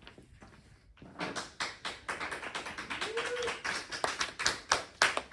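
A few people clapping in quick, irregular claps that start about a second in and grow louder toward the end. A short rising-and-falling tone sounds about three seconds in.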